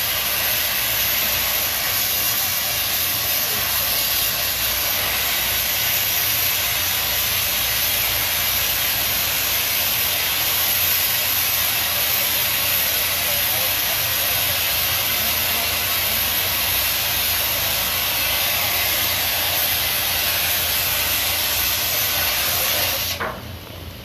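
A loud, steady hissing noise that stops suddenly about a second before the end.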